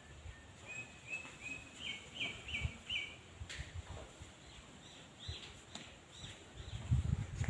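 A bird chirping: a run of about seven short notes stepping up in pitch, then a few higher notes a couple of seconds later. Low thumps come near the end.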